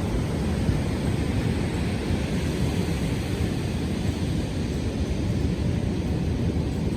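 Steady beach wind and ocean surf noise, mostly a low rumble with no distinct events.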